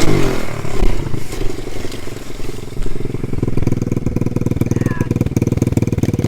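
Pit bike engine running, a rapid buzz of firing pulses that settles into a steady pitch from about halfway through.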